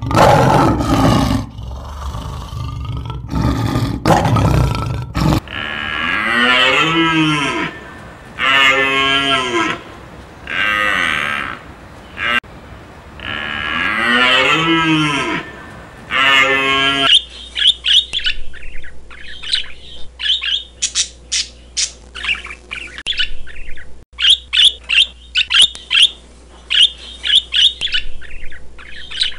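A run of animal calls: a harsh, noisy call for the first few seconds, then five long drawn-out calls that rise and fall in pitch, then, from about seventeen seconds in, rapid clusters of short bird chirps.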